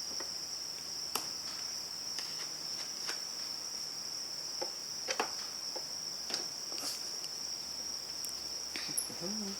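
Crickets trilling in a steady high-pitched drone, with a few scattered light clicks and taps from small parts being handled while a skid steer joystick is put together.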